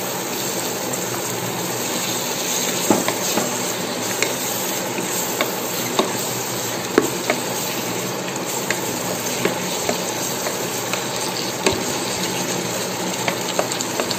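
Sliced onions, green chillies and freshly added chopped tomatoes sizzling steadily in oil in an electric rice cooker pot. A wooden spatula stirs them, knocking against the pot in irregular sharp clicks.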